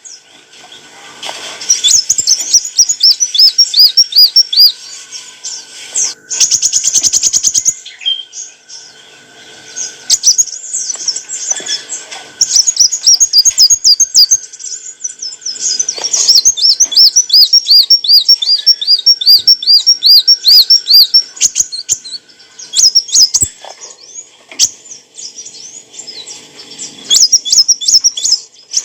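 Kolibri wulung sunbird singing: loud, fast runs of high, thin whistled notes, each phrase a quick string of repeated up-and-down notes several per second, broken by short pauses.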